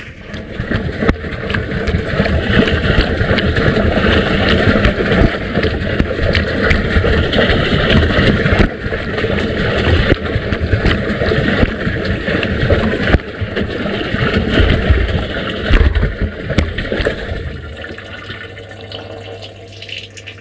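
Washing machine drum turning wet laundry through wash water, with continuous sloshing and splashing. The sloshing eases off about three-quarters through.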